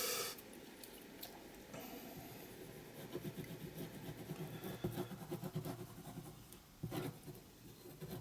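Faint rustling and rubbing of paper and tape being handled and pressed onto a journal page, with a short tap about seven seconds in.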